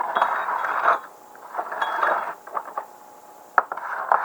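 Small metal carburetor parts being handled and shifted about, with clinks and scraping in three short bursts.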